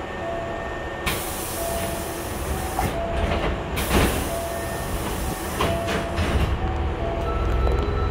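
Hankyu 5300 series commuter train standing at a station with its doors open: two long hisses of compressed air, over short repeated beeping tones. A low rumble grows louder near the end.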